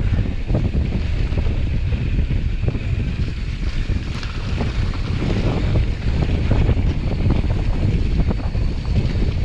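Wind buffeting the microphone: a heavy, uneven rumble with a hiss above it and a few faint knocks.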